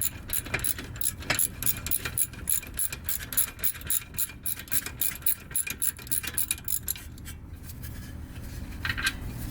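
Socket ratchet wrench clicking in quick, uneven runs while a brake bolt is worked loose. The clicking dies down about seven seconds in.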